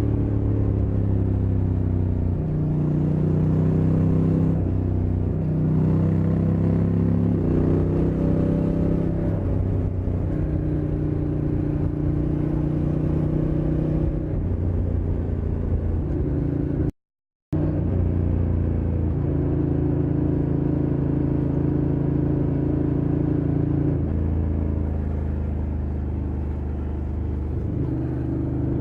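Honda NT1100's parallel-twin engine running under way, its note holding steady for a few seconds at a time and stepping up and down in pitch several times, with rushing wind and road noise underneath. The sound cuts out completely for about half a second about two-thirds of the way through.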